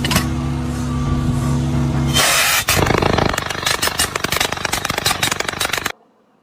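An engine running steadily, then, from about two seconds in, a louder clattering and rattling noise that cuts off abruptly near the end.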